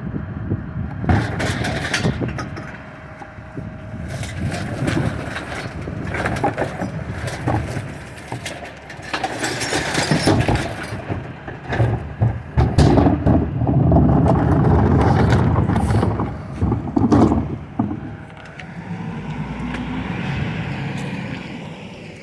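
Recycling truck at work: its engine runs under repeated clanks and knocks. Around ten seconds in there is a dense rattling clatter, and from about 14 to 16 seconds a steady louder stretch of engine and machinery.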